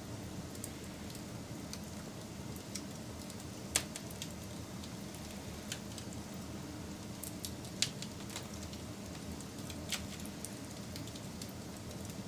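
Wood fire crackling over a low, steady rumble, with many small ticks and three louder pops, about four, eight and ten seconds in.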